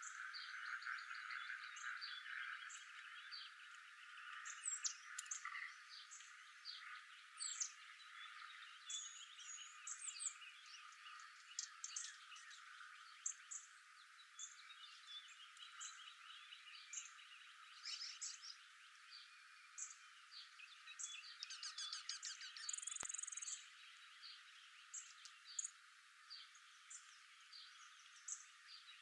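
Outdoor animal chorus: many short, high chirps, whistles and rapid trills from birds over a steady, busier lower chorus of frog-like calls, strongest in the first few seconds.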